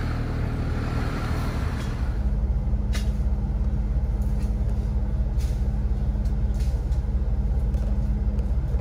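Jeep engine running steadily as it drives slowly along a dirt trail; about two seconds in its note shifts lower and gets louder. A few sharp clicks come through later on.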